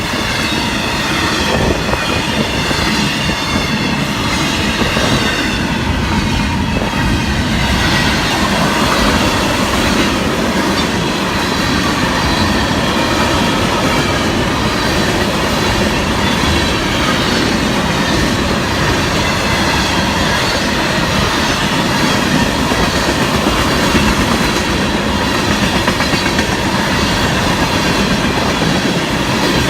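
Freight cars of a Florida East Coast Railway train rolling past, a steady loud rumble and rattle of wheels on the rails. A thin, wavering wheel squeal comes through over roughly the first eight seconds.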